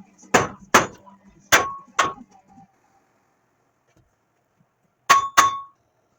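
Hammer striking steel: four sharp metallic blows in the first two seconds, then two more about five seconds in, several with a brief ring.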